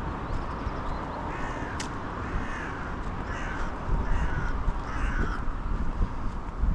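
A bird calling five times in a row, about a second apart, over a steady low rumble of background noise.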